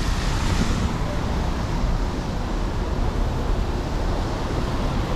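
Steady city traffic noise on a rain-wet street: a low rumble of passing vehicles under an even hiss.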